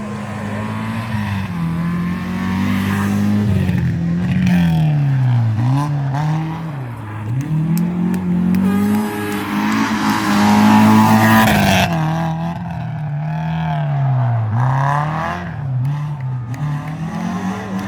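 Rally car engine revving hard and lifting off again and again, its pitch climbing and dropping through gear changes and corners. It is loudest about ten to twelve seconds in, as it comes closest.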